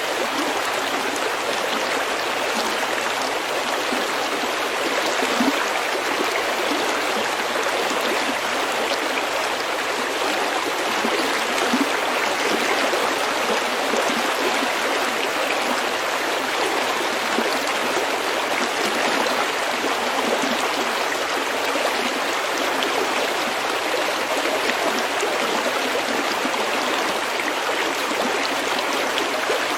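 Shallow stream flowing over pebbles, a steady babbling rush of water.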